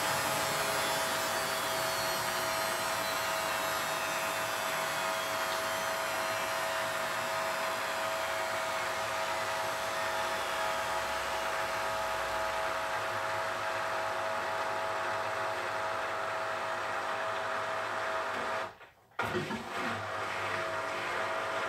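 Beko front-loading washing machine on its 1400 RPM spin, its drum motor running with a steady whir and a high whine that slowly falls in pitch. The sound cuts out abruptly for a moment near the end, then resumes.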